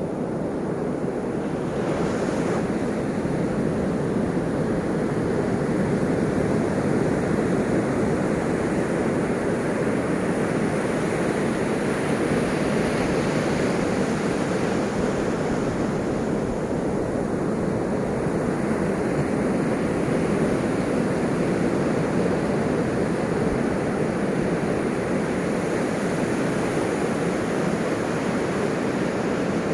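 Ocean surf: a steady, continuous wash of waves with no single break standing out.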